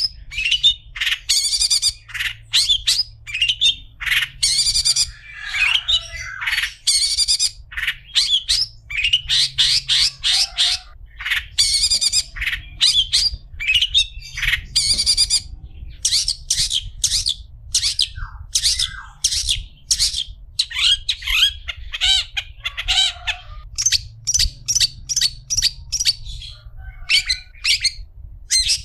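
Long-tailed shrike (cendet) singing a fast, continuous string of short, harsh, high notes, broken by a few lower chattering phrases, over a faint low hum.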